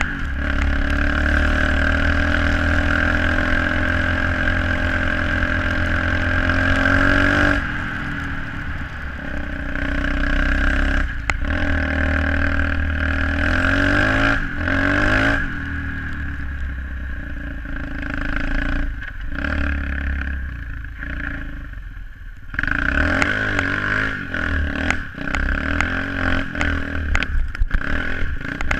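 SSR 125cc pit bike's single-cylinder four-stroke engine running under way, revving up and falling back as the throttle opens and closes, with the throttle shut briefly about a third of the way in and again past the middle. Some clatter and knocks from the bike are mixed in.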